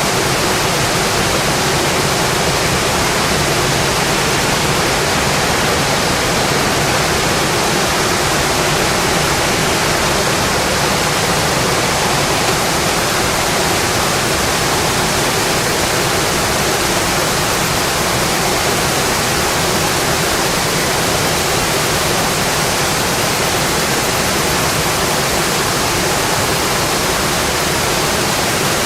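Steady rain falling, a dense even hiss that holds level throughout.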